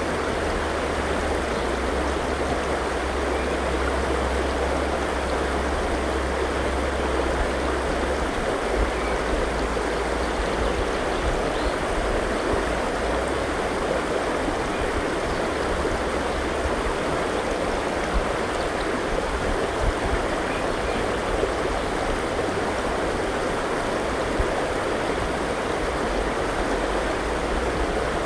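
A river flowing steadily over rocks, an even rushing of water.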